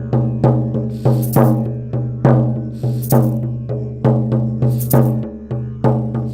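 Sound-therapy music played live: a steady low drone under a rhythmic run of struck, ringing pitched notes, about three a second, with a brighter rattling accent roughly once a second.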